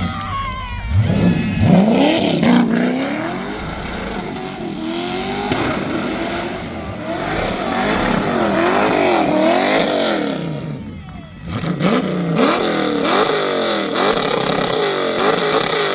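A muscle car's V8 engine revving hard during a burnout, its revs swinging up and down again and again in quick surges, with a brief drop about two-thirds of the way through before it climbs again.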